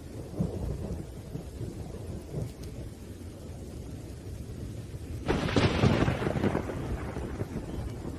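Thunderstorm with rain: low rumbling thunder, then a loud thunderclap about five seconds in that rolls away over a second or two.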